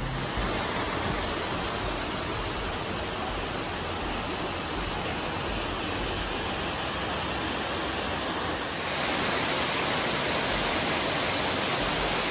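Waterfall rushing in a steady roar of falling water. About nine seconds in it jumps suddenly to a louder, hissier rush, as if a nearer or different fall.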